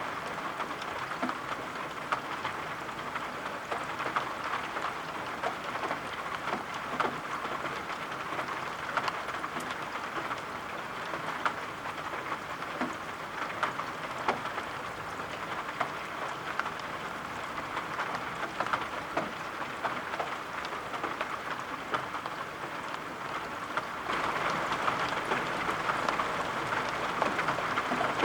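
Steady rain with a patter of individual drops, growing louder a few seconds before the end.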